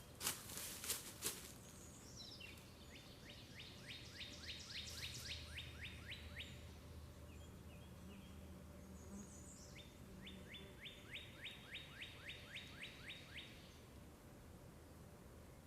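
A songbird singing two trilled songs, each a run of quick down-slurred notes at about five a second, lasting about four seconds, with a few short chirps between them. There are a few sharp clicks in the first second.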